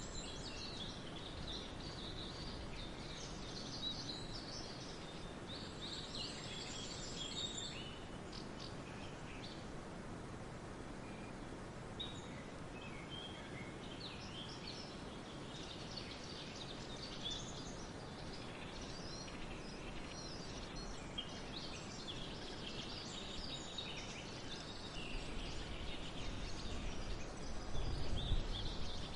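Several small birds chirping and trilling over a steady background hiss of forest ambience, with a low rumble swelling near the end.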